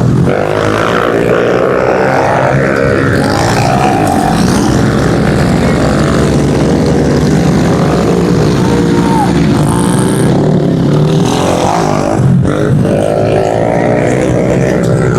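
Pit bike engines revving as the bikes race around the track, their pitch repeatedly rising and falling.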